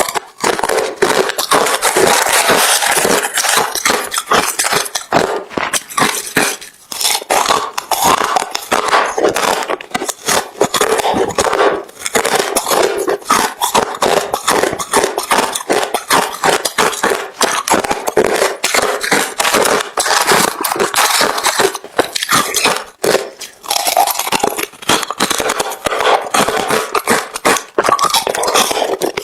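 Close-up, continuous crunching of hard refrozen crushed ice being chewed, a dense run of sharp cracks and crackles with a couple of brief pauses.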